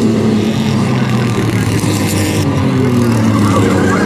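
Race truck engines running on a short oval, a steady drone with its pitch sliding slowly down as they ease off.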